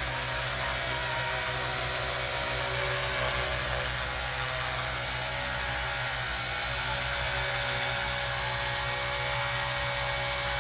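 RC ERA 1:48-scale Huey micro RC helicopter running steadily in flight, its electric motor and rotors giving a low hum under a high, steady whine. It is lifting a 113-gram load close to its own weight, which it picks up only a little.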